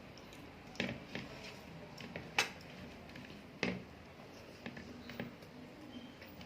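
Eating sounds: soft mouth and chewing noises with a few short sharp clicks, the loudest about two and a half seconds in.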